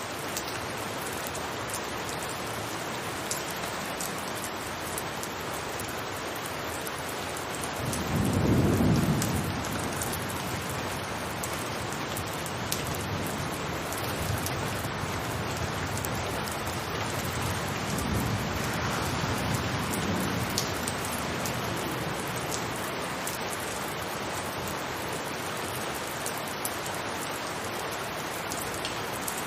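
Steady rain falling on a rooftop, with scattered drops. About eight seconds in, a deep rumble swells and fades over a couple of seconds, and softer rumbles follow around twenty seconds in.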